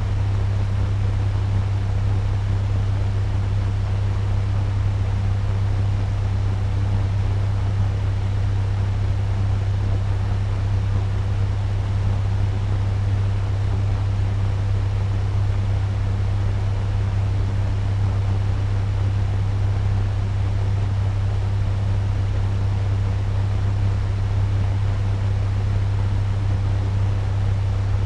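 Turbo fan running steadily at medium speed: an even rush of moving air over a strong, steady low hum.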